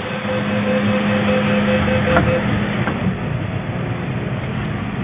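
MTR M-train standing at a station platform, its equipment giving a steady hum over general station noise. A faint rapidly pulsing tone stops a little after two seconds in, and two short clicks follow.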